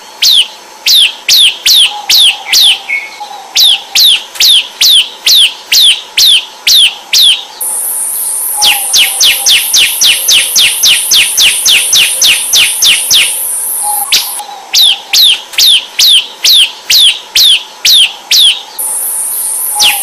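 Ciblek (bar-winged prinia) calling in a rapid string of sharp, downward-sweeping chirps, about two to three a second. The chirps speed up to a dense machine-gun-like run of about five a second in the middle, then slow again. A steady high shrill sound runs behind them from about eight seconds in, drops out partway through, and returns near the end.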